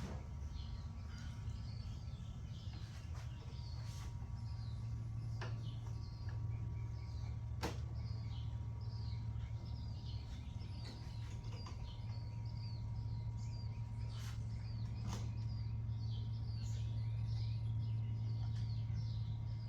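Outdoor ambience: short bird chirps repeating throughout over a steady low rumble, with a few faint clicks.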